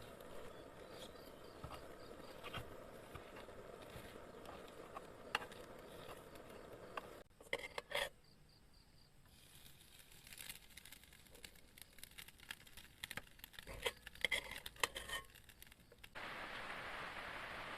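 Quiet outdoor camp ambience with scattered light clicks, taps and rustles of small handling sounds; the background changes abruptly about seven seconds in, and again near the end, where a steady hiss like light rain or insects comes in.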